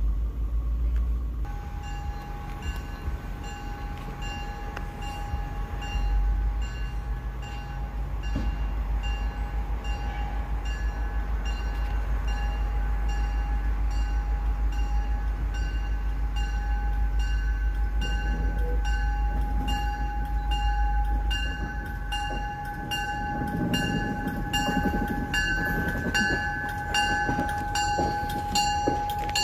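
MBTA commuter rail train rolling slowly into a layover yard, with a warning bell ringing over and over from about two seconds in. The train's rumble grows into a louder rolling noise in the last several seconds as it passes close by.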